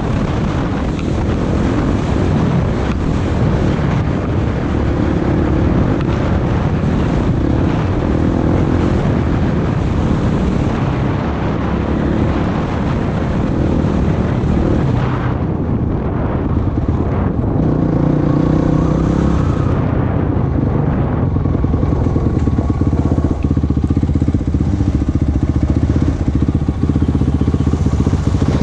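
Off-road vehicle engine running under way, its note rising and falling with the throttle.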